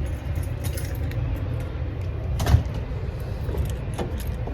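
A car door shutting with a single thump about halfway in, followed by a few lighter clicks, over a steady low rumble.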